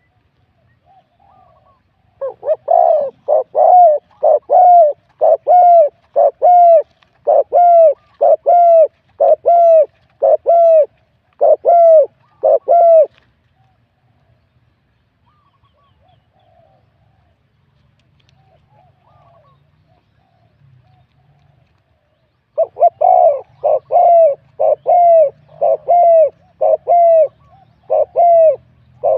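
Spotted dove cooing in a medium-to-deep voice: a run of about a dozen evenly paced coos, a pause of several seconds, then a second run near the end.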